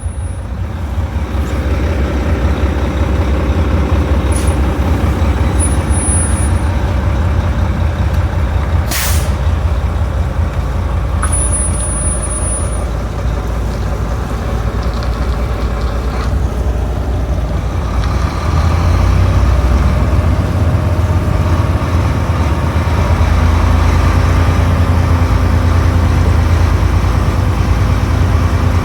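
Heavy diesel truck engine running steadily, with one short, sharp hiss of the air brakes about nine seconds in. The engine grows louder from about eighteen seconds on.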